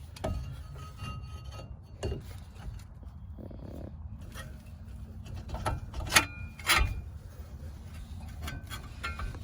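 Brake caliper being fitted back over the front brake rotor: scattered metal clicks, rubs and scrapes, with two louder clanks about six and seven seconds in, the first ringing briefly.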